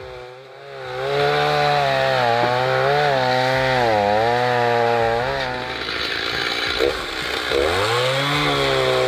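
Chainsaw engine starting up about a second in and running at high revs while cutting logs, its pitch wavering and dipping as it takes the load. It eases off and revs back up about eight seconds in.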